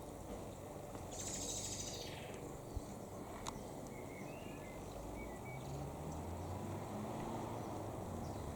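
Steady low rumble with a few short bird chirps a few seconds in and a brief hiss about a second in.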